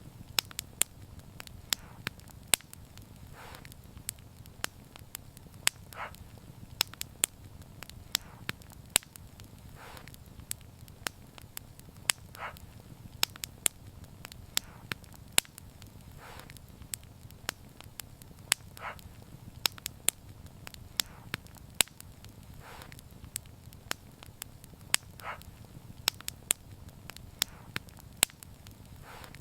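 Wood fire burning and crackling: frequent sharp, irregular pops and snaps over a steady low rumble of the flames, with a softer puff every couple of seconds.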